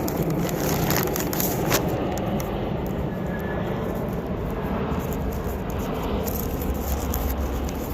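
Steady low background rumble, with a few brief rustles or clicks about one and nearly two seconds in.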